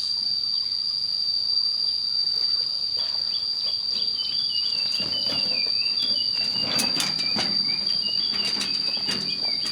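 Insects droning steadily at one high pitch, with a fainter wavering call over it from about four seconds in and a few sharp knocks about seven seconds in.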